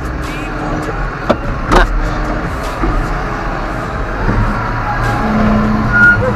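John Deere 6150M tractor's diesel engine running steadily, with a couple of sharp knocks about a second and a half in. The engine grows louder about four seconds in.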